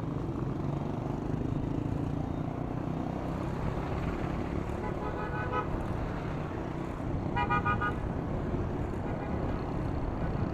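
Steady road traffic noise, with a vehicle horn sounding twice: a short toot about five seconds in and a louder one about two seconds later.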